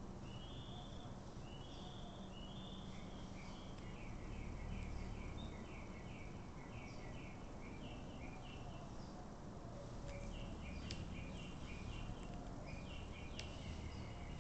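Short high chirping phrases from a bird repeat over and over, over a low steady background noise, with a few sharp clicks in the later part.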